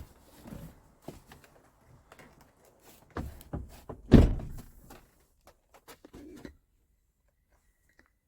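A series of knocks and clunks, the heaviest a single deep thunk about four seconds in, after which it goes quiet.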